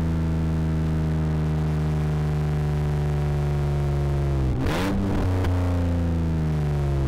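Rally car engine held at high, steady revs, its pitch slowly sinking. About four and a half seconds in there is a short burst of hiss as the pitch dips and then picks up again.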